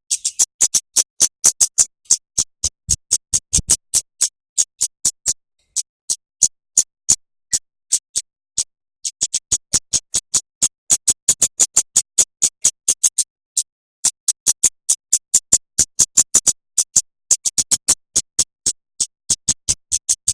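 A songbird's sharp, clipped chip notes repeated rapidly, about five a second, in runs broken by brief pauses: the tight 'tembakan' shots used as a masteran recording to train kacer and murai batu.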